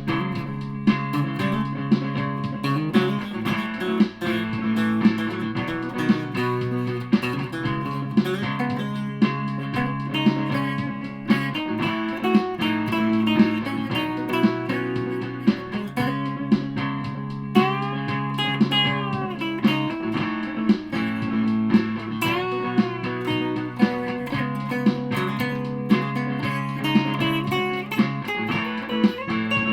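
Aria Pro II Thor Sound electric guitar playing a sustained lead line with string bends, over a steady pulse of sharp accents about once a second.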